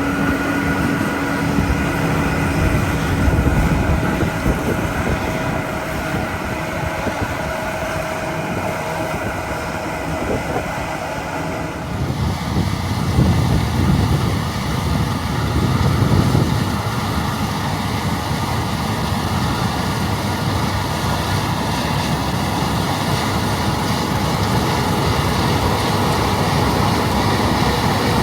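Heavy harvest machinery running steadily, a deep engine hum with a whirring drone over it. The sound changes abruptly about twelve seconds in, as if a different machine or viewpoint takes over.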